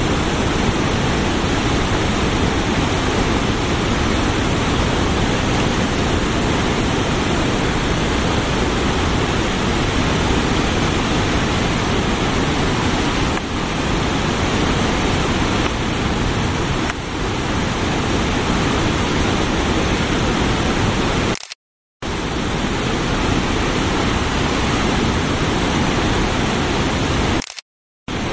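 Steady, loud rush of the Passaic River's Great Falls swollen with floodwater after a hurricane. The sound cuts out to silence twice briefly, near the end.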